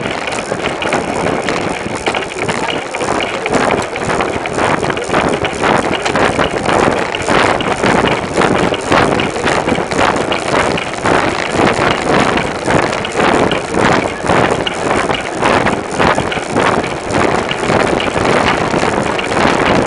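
Wind buffeting the microphone of a camera on a moving bicycle, a loud, fluttering rush with the rumble of the ride underneath.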